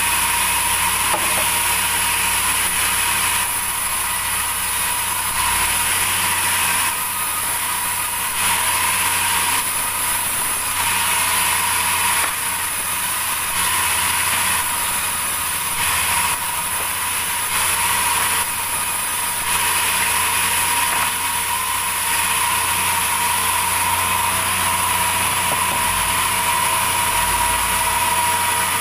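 Sawmill machinery running steadily: a power saw cutting timber, with a constant high whine and a harsher cutting noise that swells and eases every second or two.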